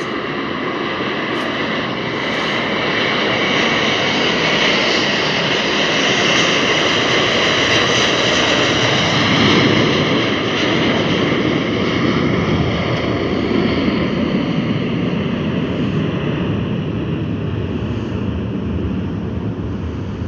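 Airbus A321 jet airliner's engines at takeoff power: a loud roar with a high whine that swells to a peak about halfway through. It then turns into a deeper rumble and slowly fades as the aircraft moves away.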